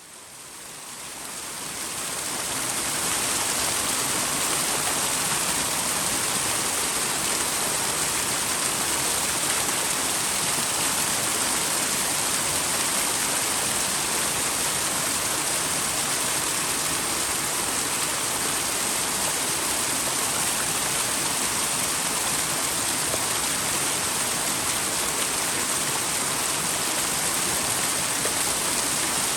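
Small twin waterfall on a mountain stream, water falling and splashing steadily. It fades in over the first few seconds.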